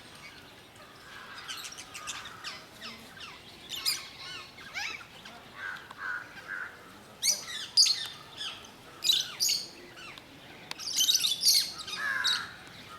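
Lovebirds chirping: many short, high-pitched calls in quick clusters, busiest a little past halfway and again near the end.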